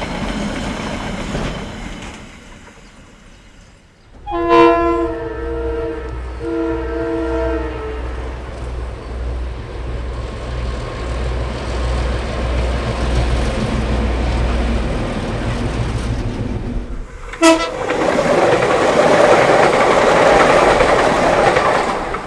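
KiwiRail EF-class electric locomotive sounding its horn in two long blasts, then running past with a steady pulsing low rumble. A short sharp sound about two-thirds of the way through is followed by loud rushing wheel-on-rail noise.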